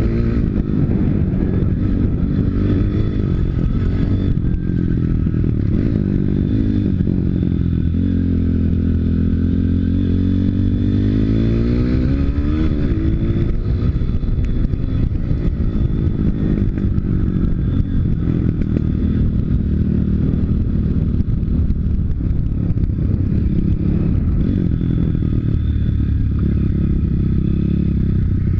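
Pit bike's 160 cc YX single-cylinder four-stroke engine running under way. The revs dip, climb to a peak about twelve seconds in, then fall back to a steady pull.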